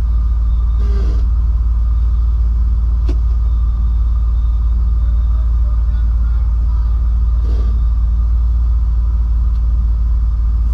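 Jeep engine running at a steady low idle, a deep constant rumble with no revving, and a single faint click about three seconds in.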